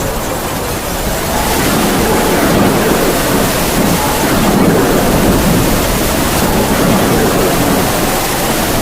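Heavy rain with howling wind: a steady, loud rushing noise with a faint wavering whistle of wind through it, swelling slightly about a second and a half in.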